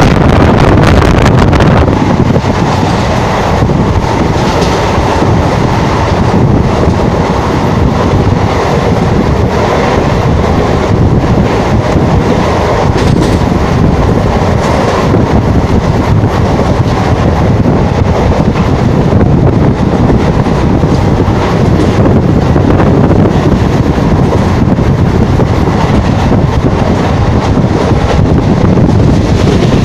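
Passenger coach of an express train running at about 110 km/h, heard from its open door: a loud, steady rumble of wheels rolling on the rails with a rushing wind, and no let-up.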